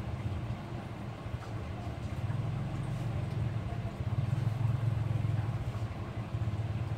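Low, continuous rumble of a vehicle engine, swelling louder in the middle and easing off near the end.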